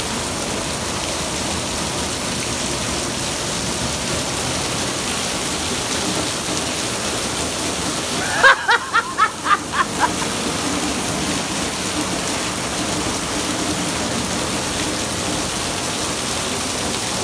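Heavy rain pouring down: a steady, even hiss of downpour. About eight seconds in, a quick run of about six short, high-pitched sounds cuts through for under two seconds.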